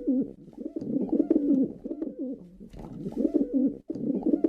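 Pigeon cooing: a run of low, rolling coos repeated over and over, with a short break shortly before the end.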